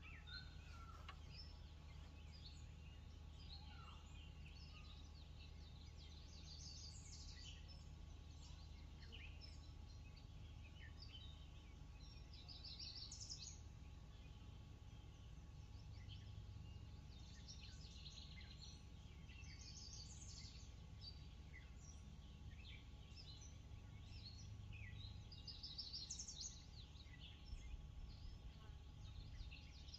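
Faint birdsong: several birds chirping and calling now and then, with clusters of quick repeated notes, over a low steady hum.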